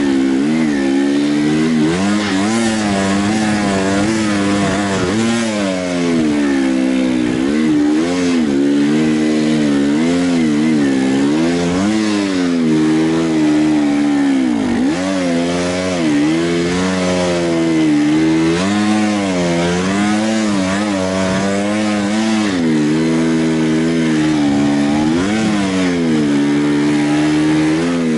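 Enduro motorcycle engine running hard, its pitch rising and falling continually as the throttle is opened and closed.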